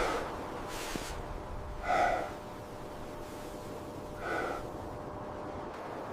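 Two short breathy gasps, about two seconds apart, over a steady hiss.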